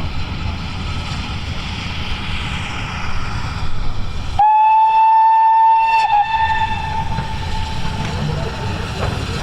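A train sounding one long, loud single-note warning of about a second and a half, which then dies away. Before it there is a steady rumbling noise.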